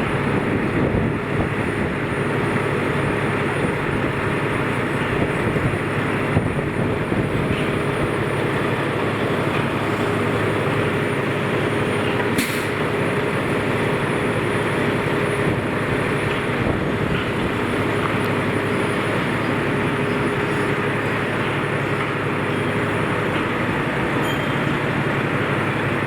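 Steady street vehicle noise with a steady hum through most of it and a single sharp click about halfway.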